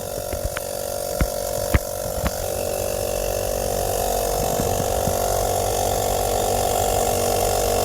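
Battery-powered 12-volt tire inflator, a small piston air compressor, running steadily as it pumps air into a car tire. A few sharp clicks come in the first couple of seconds.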